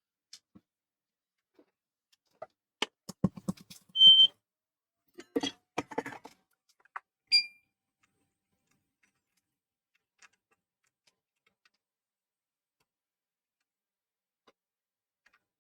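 Scattered clicks and taps of small tools being handled, with two short electronic beeps, one about four seconds in and a lower one about seven seconds in; after that, near silence with the odd faint tick.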